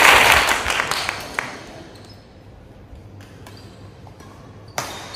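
Applause fading out over the first second and a half, then badminton rackets striking a shuttlecock: a sharp hit about a second and a half in and a louder one near the end.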